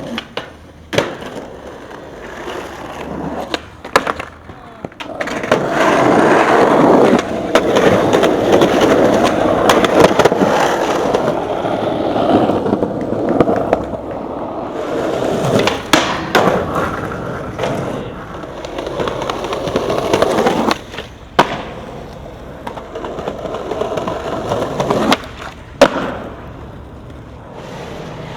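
Skateboard wheels rolling over pavement, growing loud about five seconds in and fading after about twenty, with several sharp clacks of the board popping and landing.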